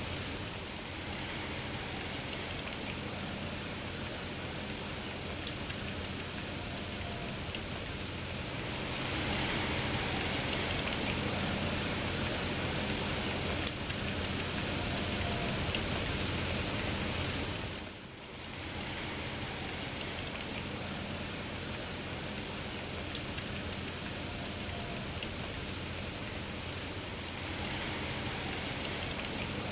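Steady rain falling. It grows a little louder for several seconds in the middle, dips briefly just after that, and is broken by three sharp, louder drop ticks.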